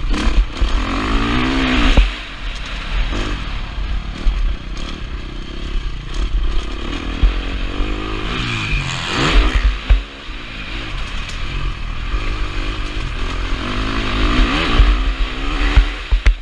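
KTM 350 SX-F's single-cylinder four-stroke engine under hard riding, revving up and dropping back in several surges as it is worked through the gears, with a heavy low rumble of wind on the helmet-mounted camera.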